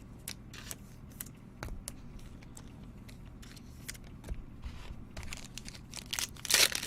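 Trading cards and pack wrappers being handled: light clicks and rustles of cards being slid and sorted, with a louder rustling burst near the end.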